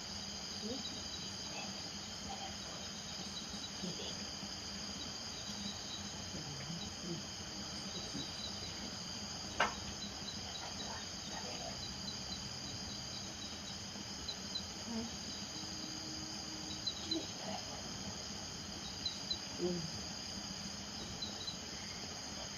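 Night chorus of crickets trilling steadily and high, with short chirps repeating over it and scattered short, low calls from frogs. A single sharp click sounds about ten seconds in.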